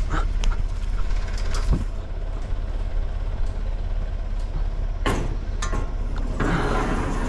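A vehicle engine running steadily with a low rumble, with a few sharp knocks over it, two of them close together about five seconds in.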